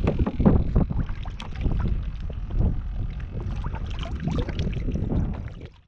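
Irregular knocks, clicks and water sounds of someone moving about and handling gear in a fishing kayak, over a low rumble of wind on the microphone. The sound cuts off abruptly near the end.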